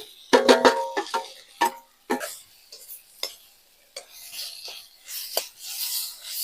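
A metal spoon clinking against a metal cooking pot, several ringing knocks in the first second, then scattered taps and a rustling scrape as the vegetables are stirred.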